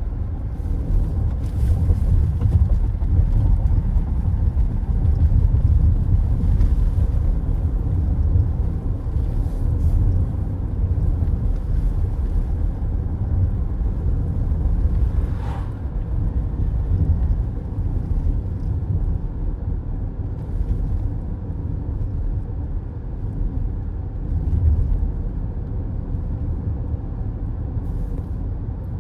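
Car driving at steady speed, its tyre and engine noise making a continuous low rumble.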